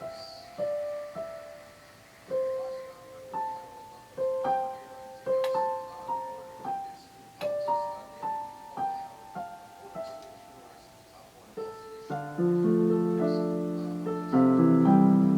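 Piano playing a slow melody one note at a time, each note struck and left to ring. About twelve seconds in, the left hand joins with low chords and the playing grows fuller and louder.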